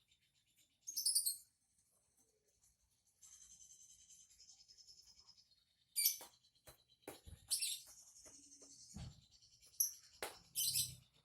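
A small cage bird chirping and twittering in short, high bursts, with one longer twittering run in the middle. A few soft knocks and thumps sound in the second half.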